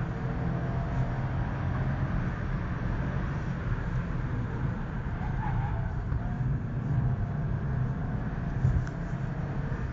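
Subaru Impreza's flat-four boxer engine and road noise heard from inside the cabin while driving, a steady low drone with a brief thump near the end.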